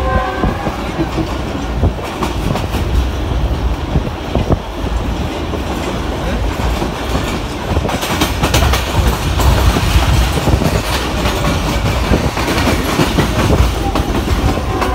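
Passenger train running at speed, heard from inside a carriage: a steady heavy rumble with the clickety-clack of wheels over rail joints, the clatter growing busier about halfway through. A brief horn note ends right at the start.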